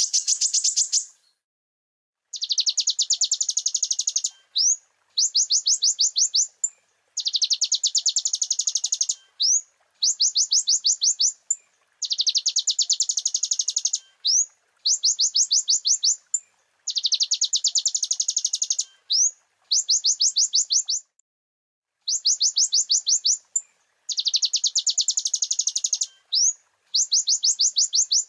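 Kolibri ninja (konin) sunbird song from a looped tutoring recording. It gives bursts of rapid, high-pitched chattering trills, each one to two seconds long and each followed by a short rising whistled note, repeated with brief pauses.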